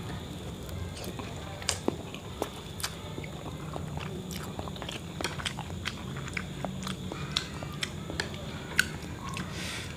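Close-up chewing of a mouthful of chicken noodles, with scattered small sharp clicks and smacks.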